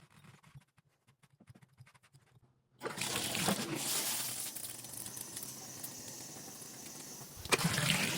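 Faint small clicks, then water starts running from a tap with a sudden, steady rush about three seconds in and runs louder near the end: the valve being turned on to test the freshly greased Delta Monitor cartridge.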